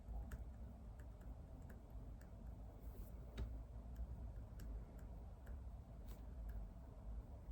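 Faint, irregular clicks and taps of desk study work, a few a second and unevenly spaced, over a steady low room rumble.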